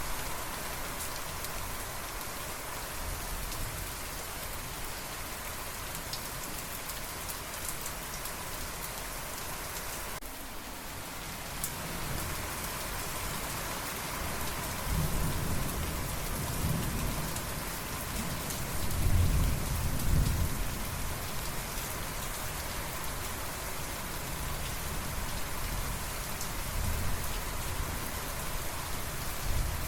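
Steady rain falling, with thunder rumbling low in the middle of the stretch, loudest about two-thirds of the way through before fading back under the rain.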